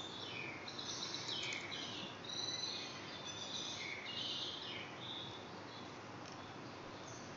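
Birds chirping faintly in the background, many short high calls, thickest in the first few seconds and thinning out later, over a steady low hiss of room noise.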